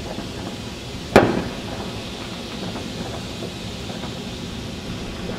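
Red firework ground fountains hissing steadily, with one sharp firework bang a little over a second in that rings out briefly.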